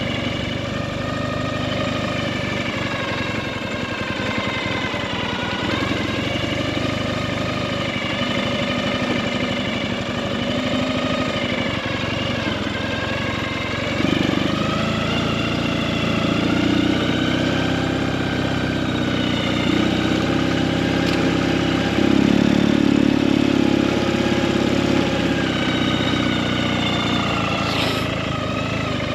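Ural sidecar motorcycle's flat-twin engine running under way, its pitch rising and falling with the throttle. It gets louder about halfway through.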